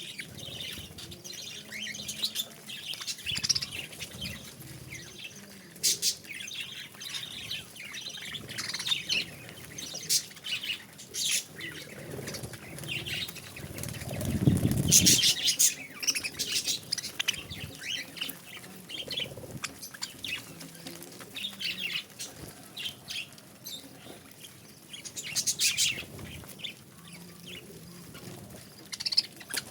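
Budgerigars chirping and chattering in quick, short calls, with wings fluttering now and then. There is a louder flutter of wings about halfway through.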